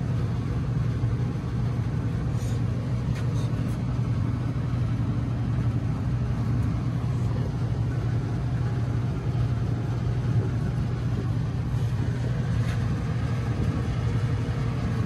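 Steady low mechanical hum of running HVAC condensing equipment, with a few faint taps a few seconds in.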